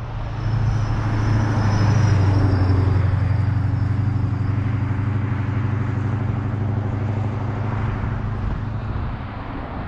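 Steady drone of a motor vehicle's engine, loudest about two seconds in and slowly fading toward the end, over a noisy rush.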